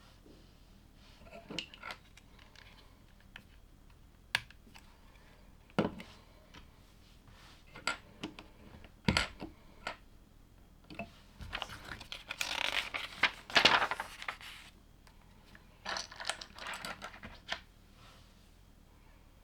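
LEGO plastic bricks being handled and pressed together: scattered sharp clicks and small clatters. Past the middle there is a denser stretch of rattling and rustling lasting about three seconds.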